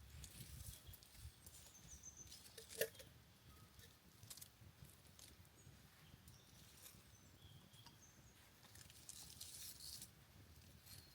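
Faint forest ambience: scattered light clicks and rustles with a few short, high chirps, and one sharp click a little under three seconds in.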